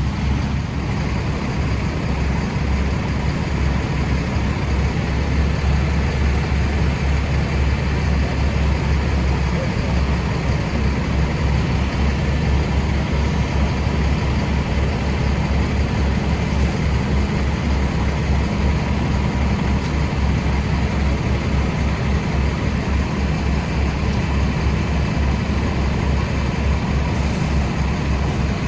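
A heavy engine running steadily, a low rumble with a fast flutter that does not rise or fall.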